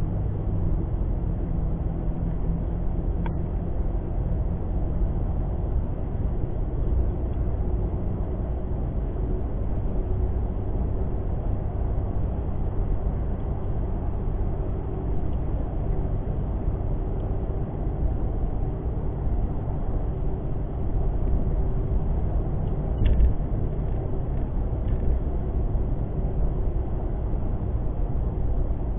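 Steady engine and tyre rumble inside the cab of a 2017 Toyota Tacoma on 33-inch Duratrac tyres cruising on a snowy highway, with a faint steady hum over the road noise. A brief knock stands out a little over 20 seconds in.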